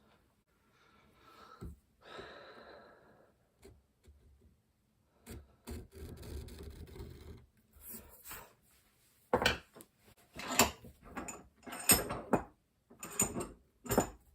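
Hand tools being handled on a wooden table: a stretch of scraping and rubbing, then a run of sharp knocks and clacks near the end.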